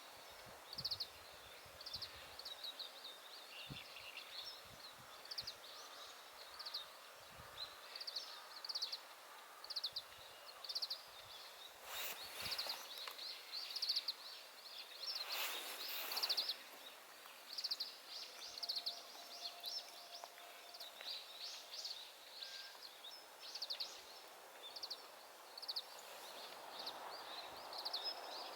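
Small birds chirping outdoors: many short, high calls scattered irregularly throughout. Two brief rushes of noise come about midway, and there are a few faint low knocks in the first several seconds.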